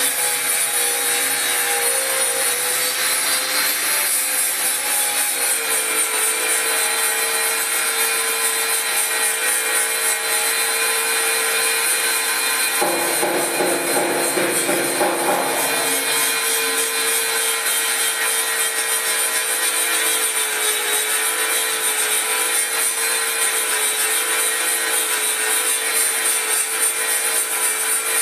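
Angle grinder running under load against metal, a steady motor whine that wavers slightly in pitch over a harsh grinding hiss. For a few seconds around the middle the grinding turns heavier and deeper.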